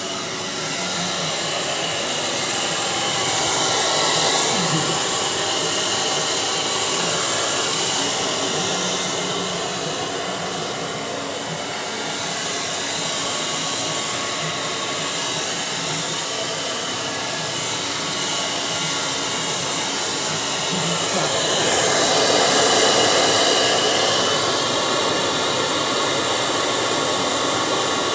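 Handheld hair dryer blowing steadily, used to thaw a refrigerator's ice; its level swells and eases a couple of times.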